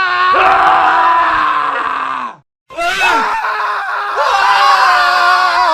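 Male screaming: one long scream, sagging slightly in pitch, cuts off about two and a half seconds in. After a brief silent gap, another scream starts.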